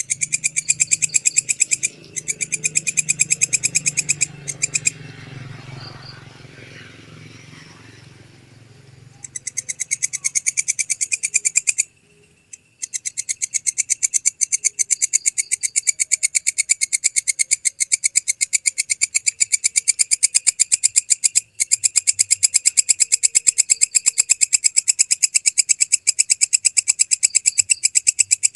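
Walang kecek katydid calling: a loud, high, rapid ticking chirp, about four pulse groups a second. The calling stops for a few seconds about a fifth of the way in, leaving a low hum, and then drops out briefly twice more.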